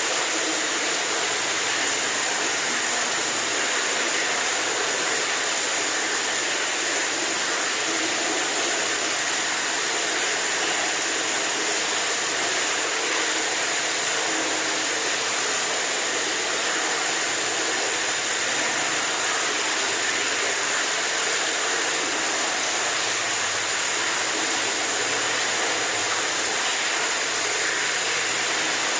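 Running water rushing steadily, an even unbroken hiss that does not change in level.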